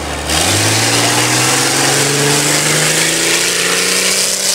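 Vehicle engine accelerating hard on a sand drag run, its pitch rising steadily for about four seconds over a steady hiss, which starts suddenly about a third of a second in.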